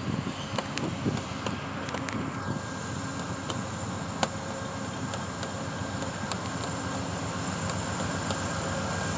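GE P40DC diesel-electric locomotive running, growing slowly louder over the stretch, with scattered sharp clicks over the steady engine noise.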